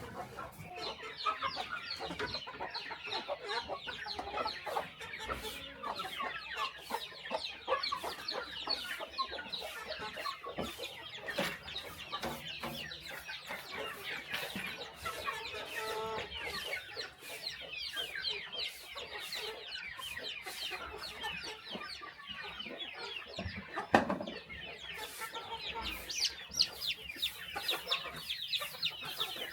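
A flock of chickens clucking continuously, many birds calling over one another, with frequent small sharp taps and one louder knock near the end.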